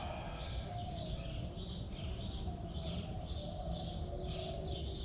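A bird chirping over and over at an even pace, about two short high chirps a second, with fainter, lower calls behind it.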